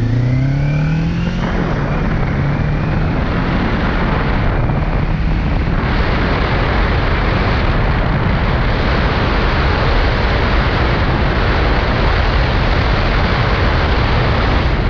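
Kawasaki Ninja 400's parallel-twin engine accelerating, its pitch rising for about the first second and a half. Then a loud, steady rush of wind on the microphone at riding speed covers it, with the engine faintly underneath.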